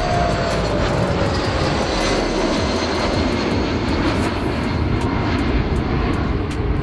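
Aircraft engines on a low pass overhead: a loud, steady rush of engine noise, with a whine that falls in pitch over the first couple of seconds as the plane goes by.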